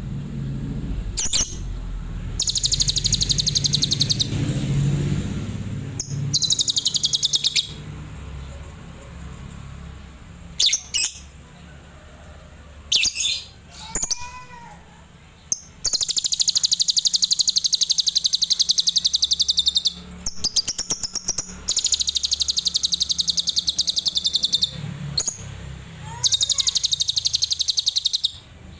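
Adult lovebird singing in long, rapid, high-pitched trills, the 'tembakan' bursts of lovebird song. There are about half a dozen bursts of one to four seconds with short chirps between them; the longest comes a little past the middle.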